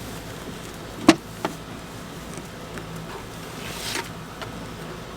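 Honeybees buzzing steadily around a freshly opened hive box just after being shaken in, with two sharp knocks about a second in.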